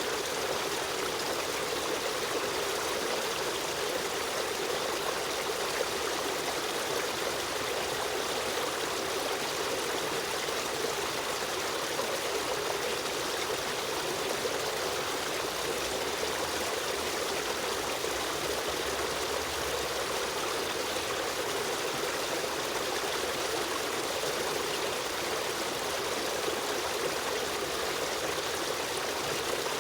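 River stream running water, flowing steadily with an even rushing sound.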